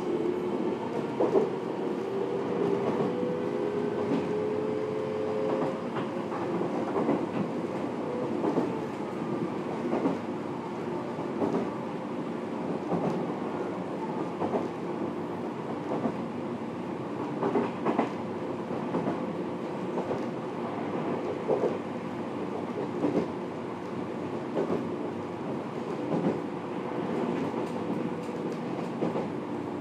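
Fukuoka City Subway 1000N series train running on the rails, heard from inside the car: a steady rumble with wheel clacks over rail joints about every second and a half. A motor whine rises in pitch over the first several seconds as the train gathers speed, then levels off.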